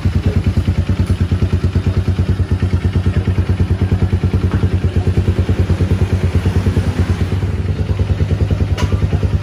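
Honda XR200's air-cooled single-cylinder four-stroke engine idling with a steady, even beat. It runs smoothly, freshly serviced.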